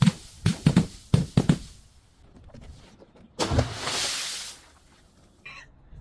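An object being crushed: a quick run of five sharp cracks in the first second and a half, then about three and a half seconds in, a louder crunch followed by a second of hissing crackle.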